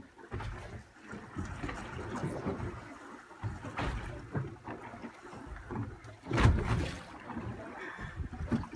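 Sea water sloshing and splashing against a small fishing boat, with knocks on board and a louder splash or thump about six and a half seconds in.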